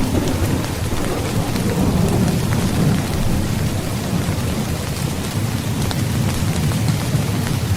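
Heavy rain falling steadily, with a continuous low thunder rumble beneath it and scattered ticks of individual drops; no single sharp thunderclap.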